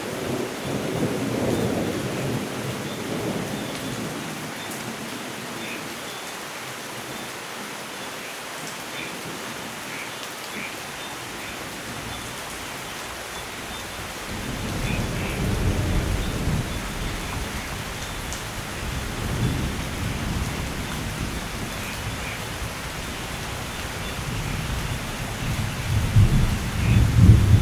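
Steady rain with rolling thunder. A low rumble comes in the first few seconds, then repeated rumbles build from about halfway, loudest just before the end.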